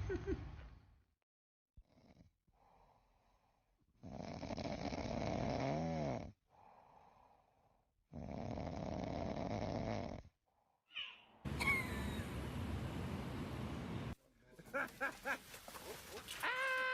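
Snoring in two long, noisy breaths a few seconds apart. Other noises follow, ending in a short pitched call.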